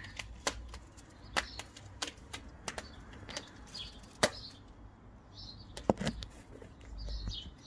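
Small birds chirping now and then in short high notes, over scattered sharp clicks and ticks; the loudest clicks come about four seconds in and again about six seconds in, with a low rumble shortly before the end.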